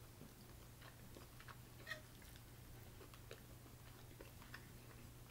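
Faint eating sounds: soft chewing of skewered chicken with scattered small clicks, one a little louder about two seconds in, over a steady low hum.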